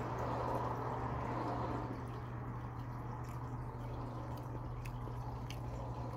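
Wet, close-up chewing of a soft bun, with small mouth clicks scattered throughout, over a steady low hum.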